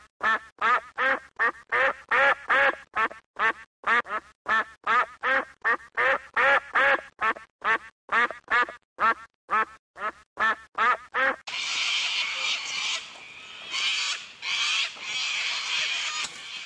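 A bird calling over and over in short pitched calls, about two to three a second. About eleven seconds in this cuts off abruptly, giving way to a steady hiss with fainter higher chatter.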